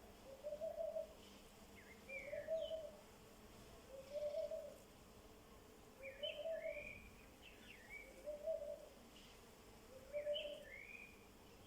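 A bird's low hooting call repeated steadily, about every two seconds, with smaller birds chirping higher up in between.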